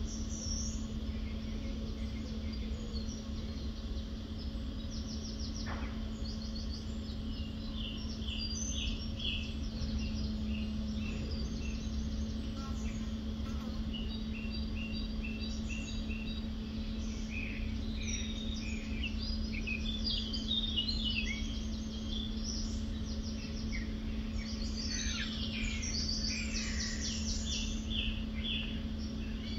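Several small birds chirping and singing in quick repeated notes and trills, busiest in the second half, over a steady low hum.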